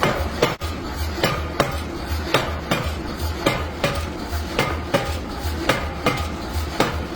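Hammer striking steel in a steady rhythm, about two to three blows a second, each with a short metallic ring, over background music.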